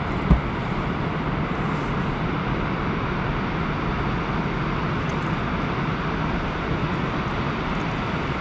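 Steady drone and rush of a motorboat running on the river, engine noise mixed with wind on the microphone, with a single thump about a third of a second in.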